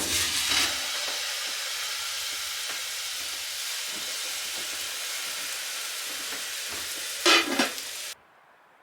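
Food sizzling in a hot frying pan: a steady hiss with a brief louder stir or clatter near the end, then it cuts off suddenly.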